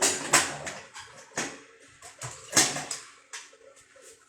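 About five sharp knocks and clatters of hard objects being handled and set down, loudest in the first three seconds.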